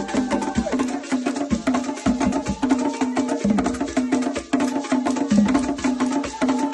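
Ghanaian traditional drumming: a fast, even rhythm of pitched drum strokes with a sharp, clicking wooden percussion part over it, the kind of music that accompanies akɔm (spirit-possession) dancing.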